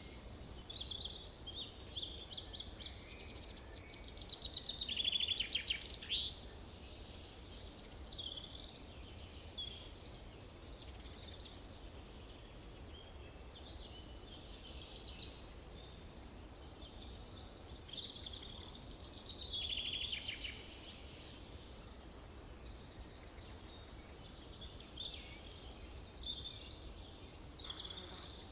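Forest birdsong: several songbirds singing and calling over one another in short chirps, whistles and trills, with a louder rapid trill about five seconds in. A faint steady low rumble lies underneath.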